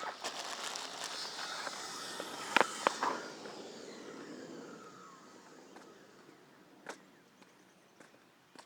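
A car passing by, its noise fading away over about five seconds with a slowly falling pitch. Two sharp clicks sound about two and a half seconds in.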